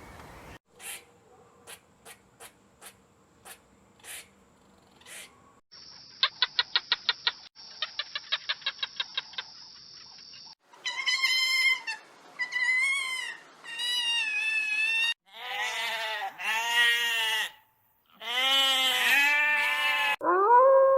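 A series of different animal calls one after another. First come a few scattered clicks. Then two rapid pulsing trills follow, and then several loud, wavering pitched calls that rise and fall.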